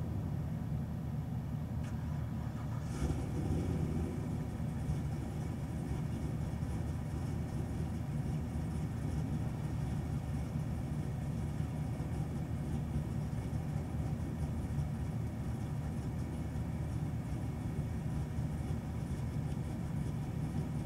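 2017 Chevrolet Camaro SS 1LE's 6.2-litre V8 idling steadily, heard from inside the cabin. A single brief click about three seconds in.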